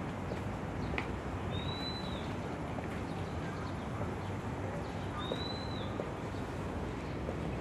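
A bird calling with a short, arched whistled note, twice, about three and a half seconds apart, over a steady background hum.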